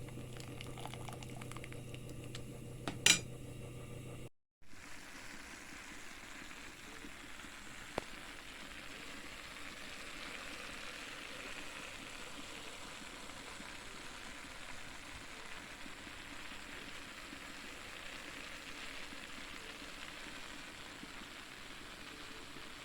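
A sharp knock about three seconds in over a low hum, then, after a brief cut, a steady hiss of food cooking in a pot on the stove.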